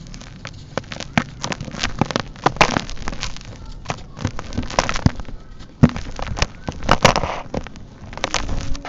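Dry, dusty sand-cement chunks being crumbled and crushed by hand: irregular crunching and crackling with several louder snaps.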